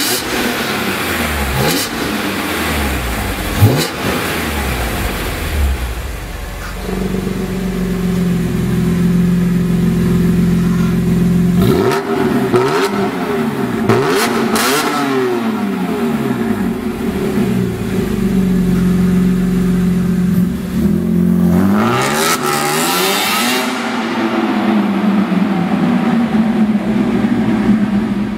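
BMW E46 M3 CSL's 3.2-litre inline-six through a custom-made exhaust, revved repeatedly with steadier running between the revs. There is a sharp crack about four seconds in.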